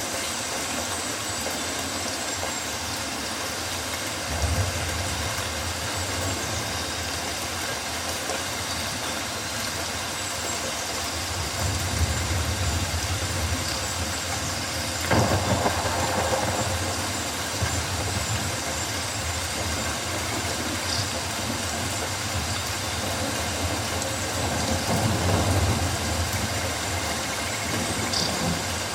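Steady rain falling on rainforest foliage, a constant hiss, with low rumbles swelling up three times, the strongest starting suddenly about halfway through.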